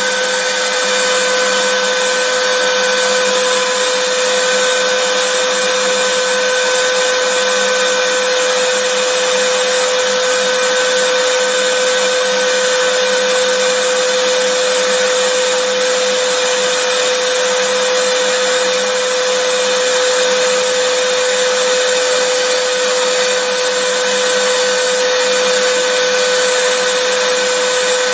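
Vacuum cleaner running continuously: a steady motor whine with an airy rush, unchanging throughout.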